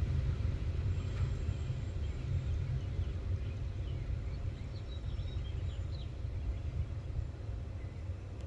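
Low, steady rumble of a loaded coal train rolling by, slowly fading. A few short bird chirps come through in the middle.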